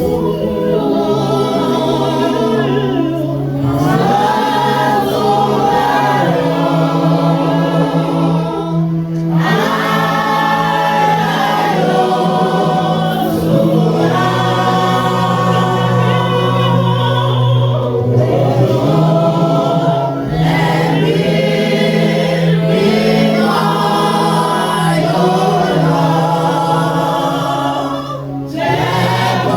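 Choir and congregation singing a gospel worship song over held low chords that change every few seconds.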